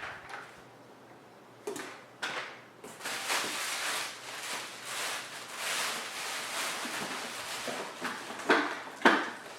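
Handling noise from plastic parts of a floor cleaner and its packaging: two sharp plastic knocks, then several seconds of rustling and scraping, with two louder clacks near the end.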